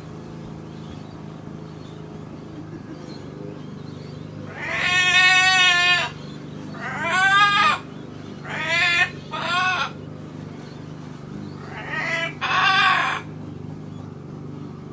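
Pet macaw parrot giving a run of loud, pitched calls, six in all, starting about four and a half seconds in; the first is the longest, and the last four come in two quick pairs.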